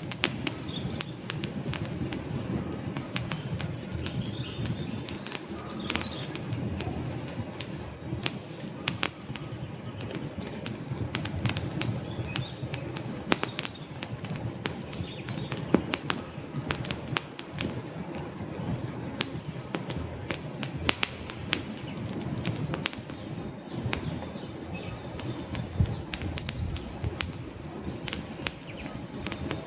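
Wood campfire burning, with many sharp, irregular crackles and pops over a steady low rush of flame.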